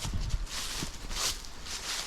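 Footsteps on dry, sandy forest ground, a few steps with a low rumble underneath.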